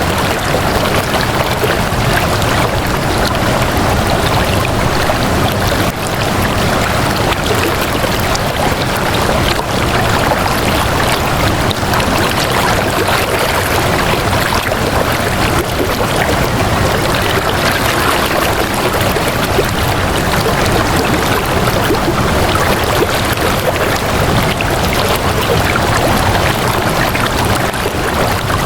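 Steady flowing water, an even, unbroken rush with no separate splashes or drops standing out.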